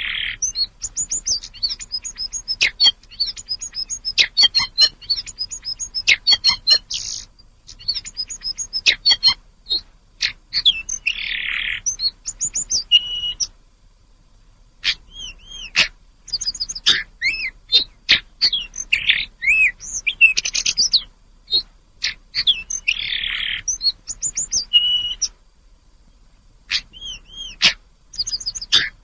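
Tledekan gunung songbird singing. Fast strings of high chirps and trilled, arching whistles come in phrases with brief pauses between them, broken three times by a short, harsh buzzy note.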